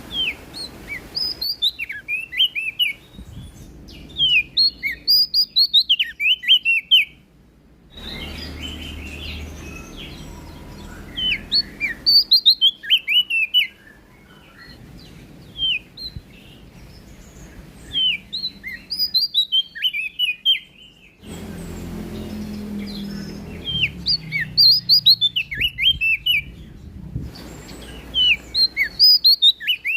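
Prenjak daun, a small leaf warbler, singing in repeated song phrases. Each phrase is a quick run of thin, high chirping notes lasting about two to three seconds, coming about every five to six seconds over a background hiss.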